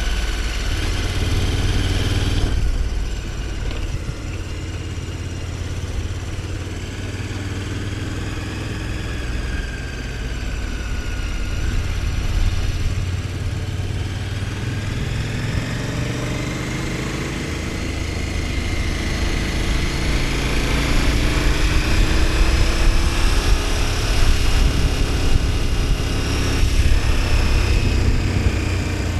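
KTM 1290 Super Adventure S's 1301 cc V-twin running under way. The engine note drops as the throttle eases about two seconds in, then climbs steadily and grows louder through the second half as the bike accelerates.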